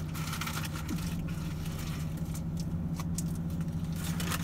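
Steady low hum of a car idling, heard inside the cabin. Scattered soft clicks and rustles of food and packaging being handled sit on top of it.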